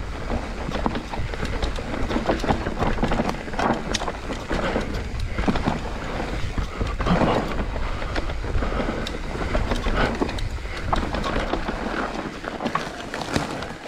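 Mountain bike rolling fast down a dry dirt trail: tyres running on loose dirt and the bike rattling and knocking over bumps, over a steady rumble of wind on the microphone.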